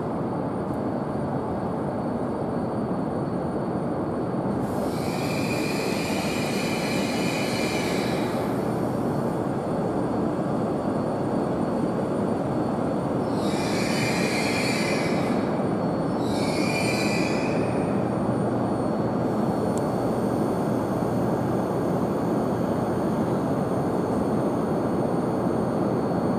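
Tohoku Shinkansen train pulling into the platform: a steady rushing running noise that grows slightly louder, with three spells of high-pitched squeal from the train, about 5, 13 and 16 seconds in.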